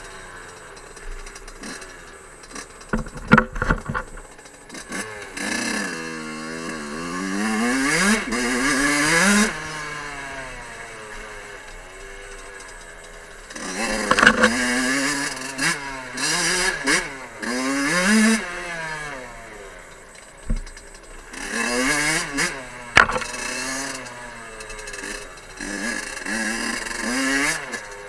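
Fantic 50 Scuderia's small two-stroke enduro engine revving up and falling back again and again as it climbs a rocky forest trail, its pitch rising in long sweeps. A few sharp knocks from the bike jolting over rocks come through the engine noise.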